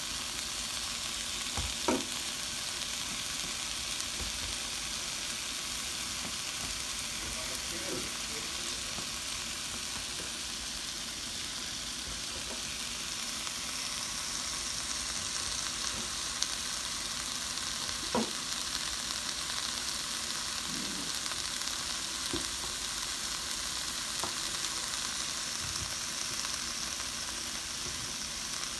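Chopped bell pepper and onion sizzling steadily in a wok, with a few sharp knocks of a knife cutting through sausage onto a plastic cutting board.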